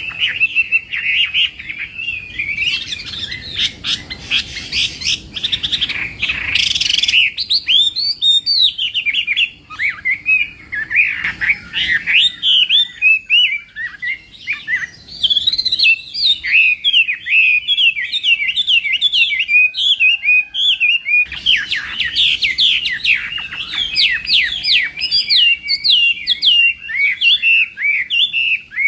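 Chinese hwamei (hoạ mi) singing a long, fast song of rapid, varied warbled and whistled notes, with a couple of brief pauses.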